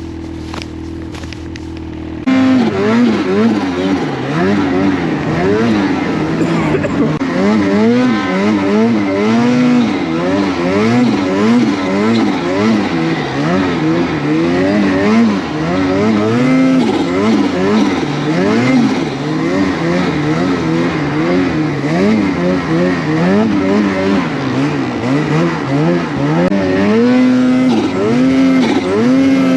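An engine revving up and down over and over, its pitch rising and falling every second or so. It comes in abruptly and loud about two seconds in, after a steadier engine tone.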